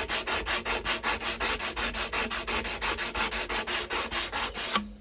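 Knife blade being hand-sanded with 120-grit sandpaper in quick, even back-and-forth strokes, about five a second, grinding out deep scratches. The strokes stop abruptly near the end.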